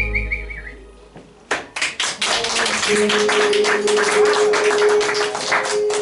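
A whistled melody ends on a wavering held note that fades out. About a second and a half in, an audience starts clapping and keeps it up, with a steady tone held under the applause from about halfway through.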